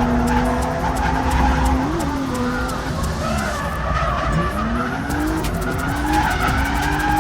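Drift car engine revving up and down several times while its tyres skid and squeal through a slide.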